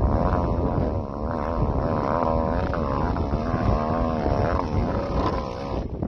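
Motorcycle engine running over a heavy low rumble, its pitch rising and falling again and again as the throttle is worked.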